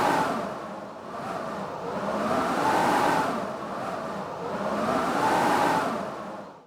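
Howling blizzard wind, rising and falling in gusts about every two and a half seconds, with a whistling tone that climbs and drops in each gust.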